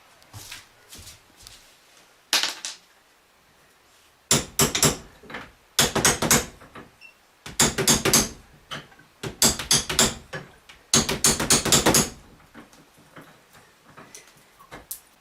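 Hand tools knocking and clicking against the metal of a leaking faucet's handle assembly as it is taken apart: about six short bursts of rapid sharp clicks with quiet gaps between.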